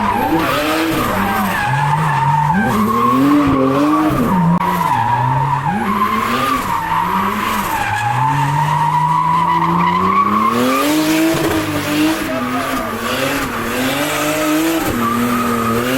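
A car drifting: the engine revs climb and drop again and again while the tyres squeal in one long steady screech. The squeal fades about eleven seconds in as the revs climb once more.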